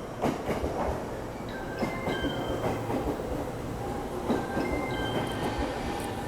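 Japanese rapid commuter train running on rails: a steady rumble with a few sharp wheel knocks over the rail joints.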